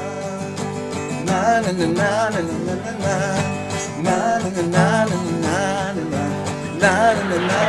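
A song: a sung melody with vibrato over acoustic guitar accompaniment, the voice coming in about a second in.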